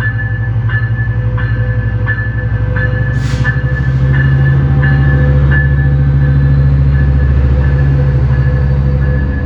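Diesel locomotive engine running, its note rising about three seconds in as it throttles up, with a bell ringing about every 0.7 seconds and a short burst of air hiss near three seconds.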